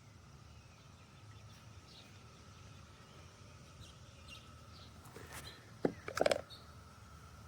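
Quiet outdoor ambience with a few faint bird chirps, and a louder short burst of bird calls about six seconds in.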